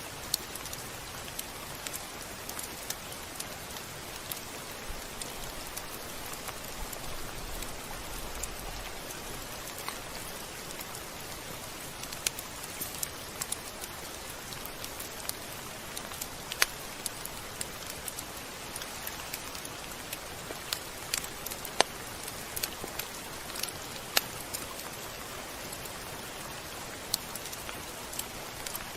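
Steady rain hissing, with scattered sharp drops tapping on a surface, a few of them louder than the rest.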